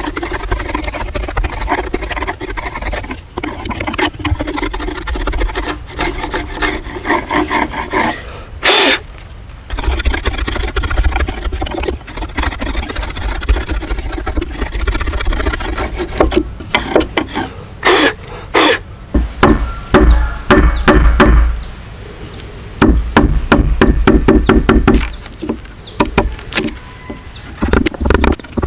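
Wood being worked by hand: repeated rubbing and scraping strokes with sharp knocks, in uneven runs broken by short pauses.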